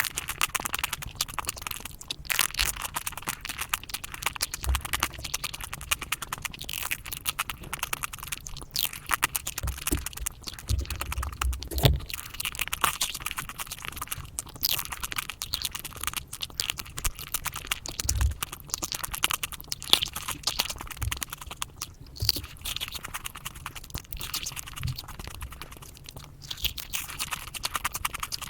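Close-miked eating sounds of chocolate sped up five times: a rapid, dense stream of crunches, clicks and mouth sounds from biting and chewing.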